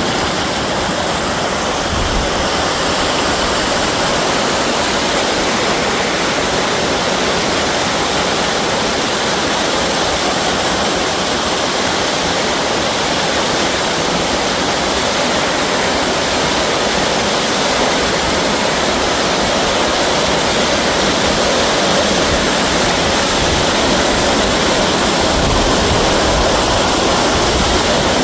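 Loud, steady rush of water pouring over a reservoir's spillway as the dam overflows.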